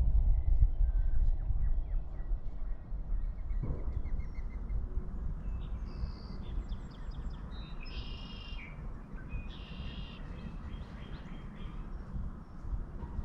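Wild birds calling in woodland: scattered chirps, then a quick run of short notes and two louder, harsh calls a couple of seconds apart in the middle. A steady low rumble of background noise lies under them.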